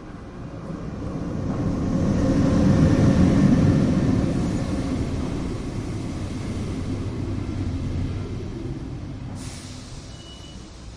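Train rumbling past, swelling to its loudest a few seconds in and then fading away, with a short hiss near the end.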